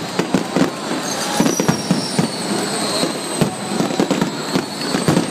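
Stadium fireworks display: a rapid, irregular string of bangs and crackles, several a second, with long high whistling tones drifting slowly down in pitch over them.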